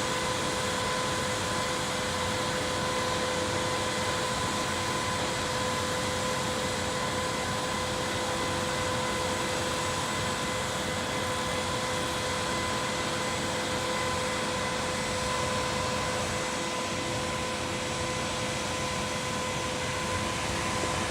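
Concrete pump machinery running steadily: an even rushing noise with a constant high whine.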